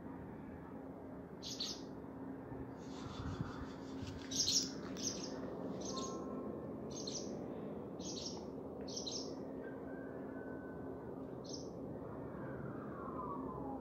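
Small bird chirping repeatedly: short, high chirps about every half to one second, most of them in a run through the middle, over a faint steady hum. A falling whistle comes near the end.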